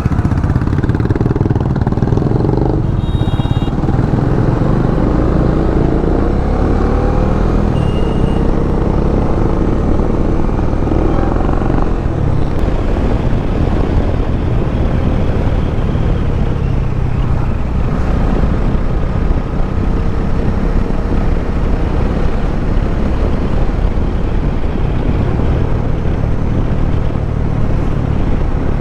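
Motorcycle engine running steadily at road speed under a constant rush of road and wind noise. The engine note rises and falls a little as the throttle changes.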